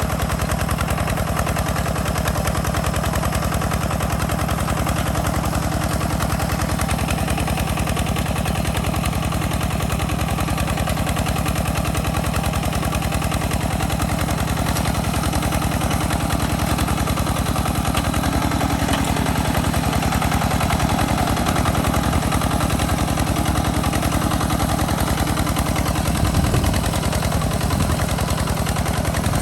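Single-cylinder diesel engine of a two-wheel walking tractor running steadily under load, pulling a plow, with a rapid, even exhaust chugging; it gets a little louder and rougher near the end.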